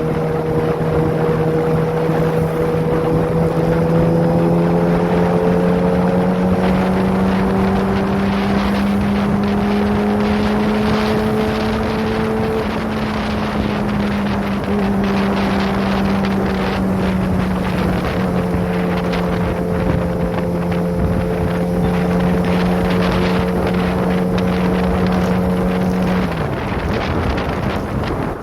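Kawasaki ZX-25R's inline-four engine, breathing through a Prospeed aftermarket exhaust, running at steady high revs while riding, with wind noise on the microphone. The engine note climbs slowly, eases back, and drops sharply near the end as the throttle is rolled off.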